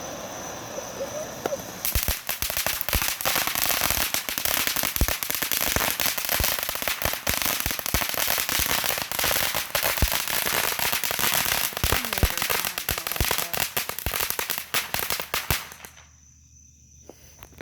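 Fireworks going off: a long run of rapid crackling pops with louder bangs scattered through it. It starts about two seconds in and stops abruptly near the end.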